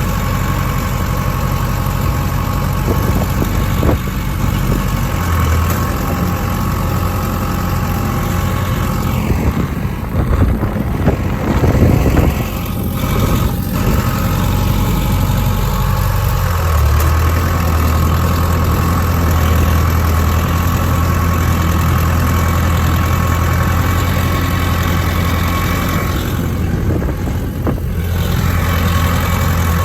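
Ford 6.0-litre diesel engine idling steadily after a cold start. Its low drone grows stronger about 17 seconds in and holds, with a louder, uneven stretch a few seconds before.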